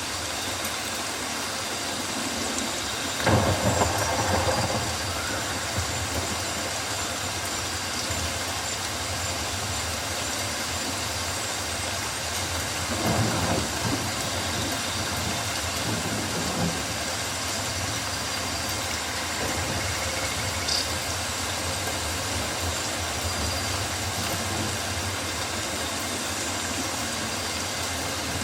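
Steady rain falling on rainforest foliage, an even hiss with a low undertone, swelling louder twice, about three seconds in and again about thirteen seconds in.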